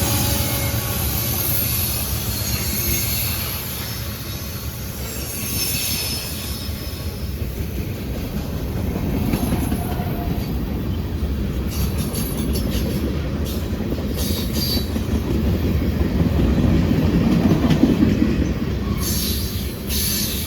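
Freight train rolling through a curve, steel wheels squealing against the rail over a steady low rumble. The squeal is strongest in the first half, and wheels click over rail joints later on.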